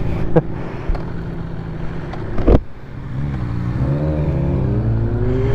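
Motorcycle engine running steadily, then a sharp knock about two and a half seconds in, after which engine pitch rises steadily as it accelerates.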